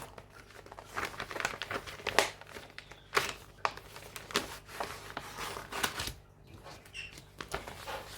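Plastic packaging of a cross stitch kit crinkling and rustling as it is handled, in irregular bursts with a quieter spell about two-thirds of the way in.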